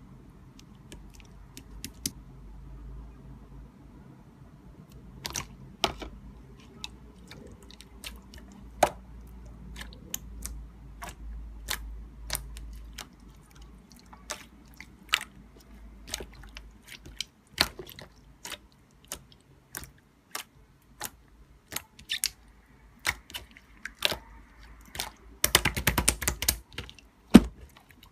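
Irregular sharp clicks and taps, about one or two a second, over a faint low hum, with a quick rattling flurry of clicks about twenty-five seconds in.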